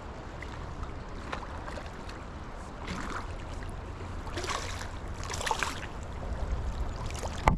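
River current running steadily, with a few brief rushes of splashing as a hooked rainbow trout is played. Near the end there is one sharp knock as the camera is smacked.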